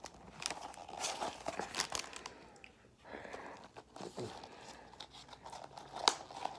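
Paper food packaging being handled, crinkling and tearing in irregular crackles, with a short pause about halfway through.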